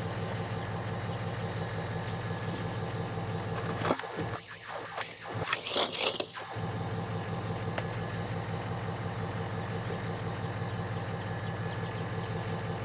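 An engine or motor running steadily with a low hum. About four seconds in it is briefly interrupted by a couple of clicks and a short rustling clatter, then the hum resumes.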